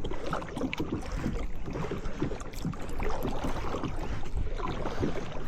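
Water splashing and dripping around a kayak as it is paddled, with a steady low rumble from wind on the microphone.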